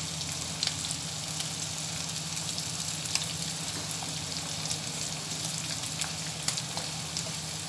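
Chicken breast strips sizzling in hot ghee in a frying pan: a steady frying hiss with scattered sharp crackles as diced onion is tipped in by hand.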